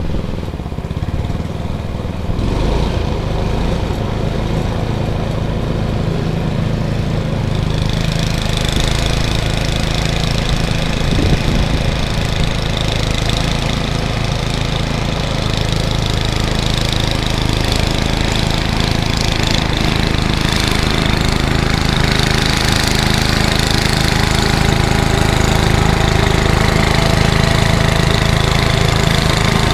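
Ariens ST828 snowblower's Tecumseh HM80 8 hp single-cylinder engine running steadily. About eight seconds in, a brighter hiss and rattle join the engine note, and the sound slowly gets louder.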